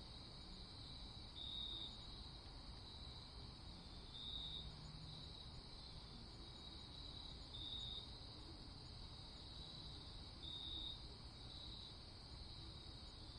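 Night crickets chirping in a steady high trill, with one louder chirp pulsing about every three seconds, over a faint low rumble.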